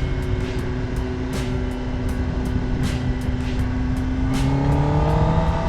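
Kawasaki ZX10R sportbike's inline-four engine running at steady revs, then rising in pitch as it accelerates about four seconds in.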